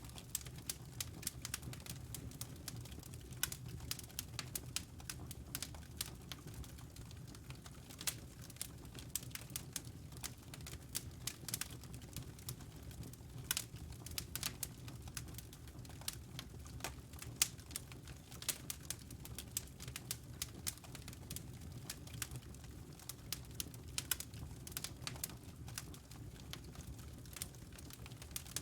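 Wood fire crackling, with dense, irregular sharp pops and snaps over a steady low rumble.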